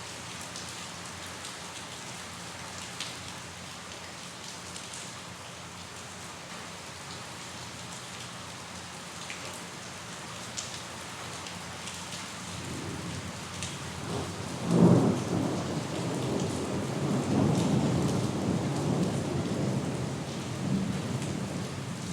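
Steady rainfall with scattered drops ticking, joined about 13 seconds in by thunder: a low rumble that peaks sharply about 15 seconds in and keeps rolling to the end.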